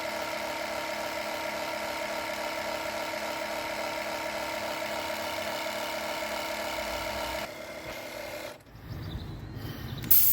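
A small electric air compressor runs with a steady whine while inflating a van's spare tyre to about 3 bar. It shuts off about eight seconds in, followed by some handling noise and a brief loud sharp sound near the end.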